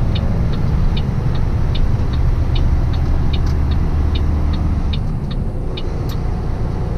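Tractor-trailer cab with a steady engine and road rumble, and the turn signal clicking evenly about two to three times a second during a merge. The clicking stops about a second before the end.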